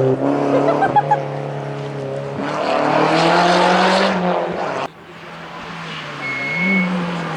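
Rally car engine at high revs, pulling harder and loudest for about two seconds, then cutting off sharply about five seconds in and coming back quieter.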